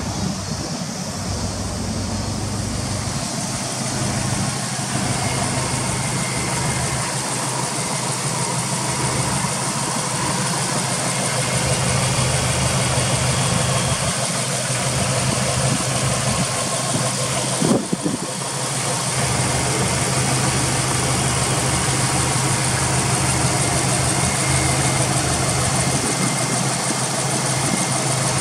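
Subaru Impreza WRX STI (GDB) turbocharged flat-four idling steadily, with a single short knock about two-thirds of the way through.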